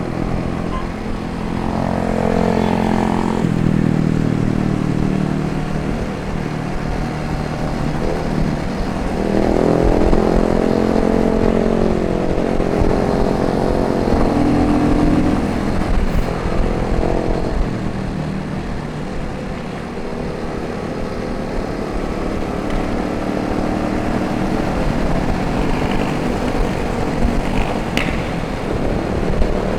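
Motorcycle engine running while riding, its pitch rising and falling several times as the bike speeds up and eases off.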